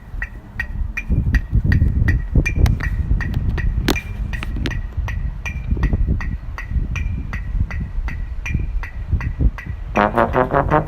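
A steady percussion beat of wood-block-like clicks, about three a second and alternating between two pitches, over a low thumping pulse. About ten seconds in, a trombone comes in loudly.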